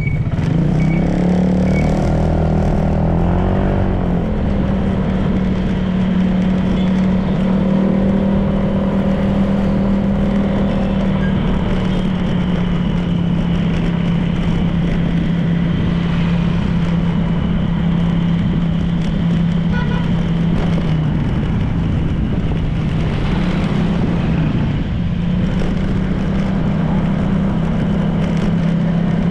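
Honda PCX 160 scooter's single-cylinder engine running while riding, with road and wind noise. The engine note stays mostly steady, rising briefly in the first few seconds and shifting slightly in pitch a few times as speed changes.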